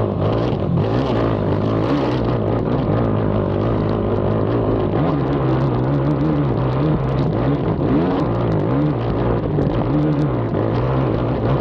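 Racing ATV engine being ridden hard, revving up and down as the rider works the throttle, its pitch rising and falling every second or so. Scattered short clicks and knocks run over it.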